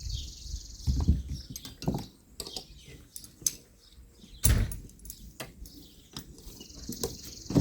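Small metal clinks, rattles and knocks of tools and hardware being handled, with one louder knock about four and a half seconds in.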